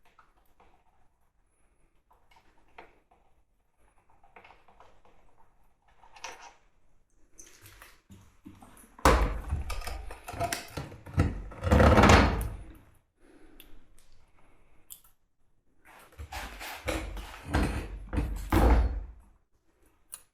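Irregular knocks and thuds, scattered and faint at first, then two loud stretches of banging, one about nine seconds in and one about sixteen seconds in.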